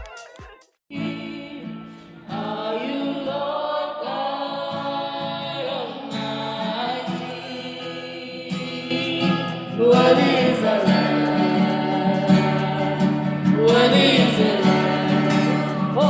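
A choir singing gospel music over steady held instrumental notes. It starts about a second in, after a dance beat cuts off, and grows louder about two-thirds of the way through.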